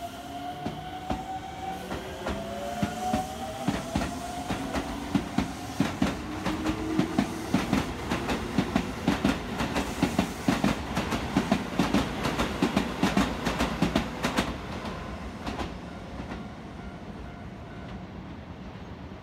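Electric commuter train pulling out of the station. Its motors give a rising whine as it gathers speed, then its wheels clack rhythmically over the rail joints, faster and faster, fading away near the end as the train leaves.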